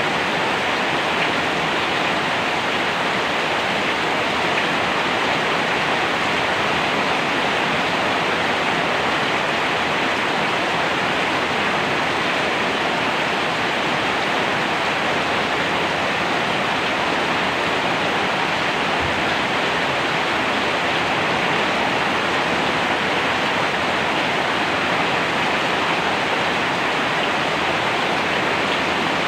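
Heavy, steady rain falling, an even unbroken hiss with no separate drops or thunder standing out.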